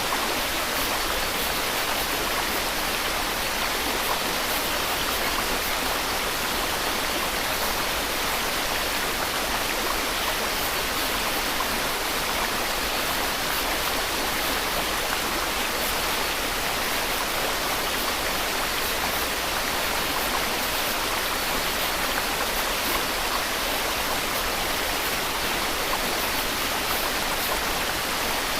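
Steady white noise: an even, unbroken hiss with most of its weight in the upper range and no change in level.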